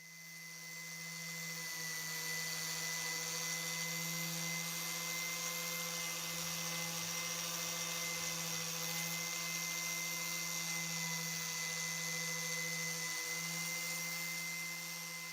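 A small electric power tool running with a steady hum and a high hiss. It builds up over the first couple of seconds, holds steady, and fades away near the end.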